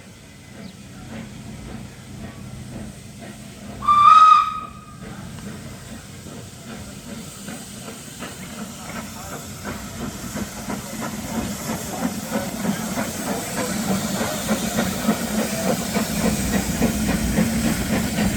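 Beyer, Peacock steam locomotive No. 8 Fenella gives one short steam whistle blast about four seconds in, the loudest sound here. Then its steam hiss and running grow steadily louder toward the end.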